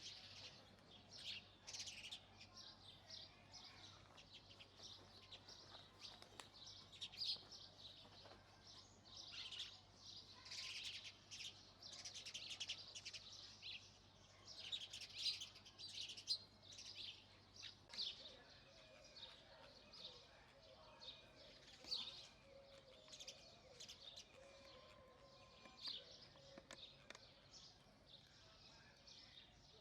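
House sparrows chirping in irregular runs of short, high chirps, fairly faint.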